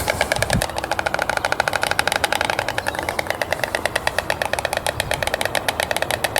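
Stork clattering its bill: a fast, even rattle of wooden-sounding clacks, about a dozen a second.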